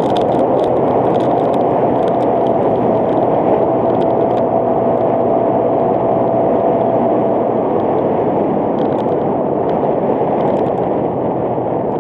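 Motorcycle running steadily at road speed, its engine hum under a heavy rush of wind over the microphone, with a few light ticks from the road.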